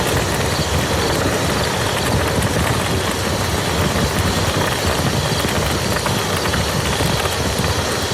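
Steady rain falling on a muddy field: a dense, even patter of drops with no let-up.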